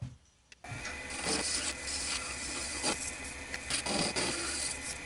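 Turning tool scraping on clear acrylic spinning on a wood lathe, over the steady hum of the lathe. It starts suddenly about half a second in, with a few louder passes of the tool.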